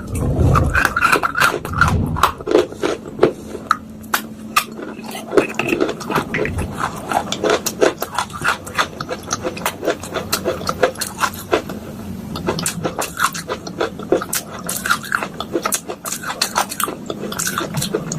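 A spoon crushing and scraping soaked clay pot pieces in a bowl: rapid, irregular crunches and clicks, with a couple of heavier thumps in the first two seconds.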